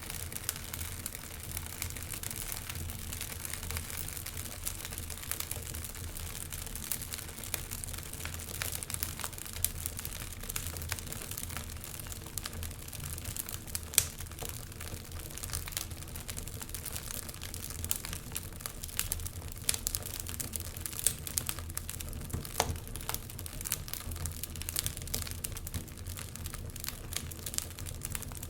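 Wood fire burning in a fireplace: logs crackling with frequent irregular small pops and snaps, one sharper pop about halfway through, over a steady low rumble.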